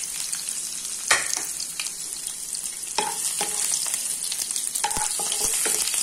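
Chopped ginger and garlic sizzling in hot oil in a nonstick wok, a steady hiss. A wooden spatula knocks and scrapes against the pan as it stirs, with the loudest knock about a second in.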